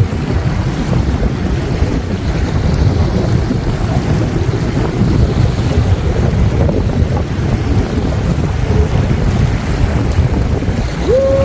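Strong wind buffeting the microphone, a loud, steady low rumble that drowns out other sound.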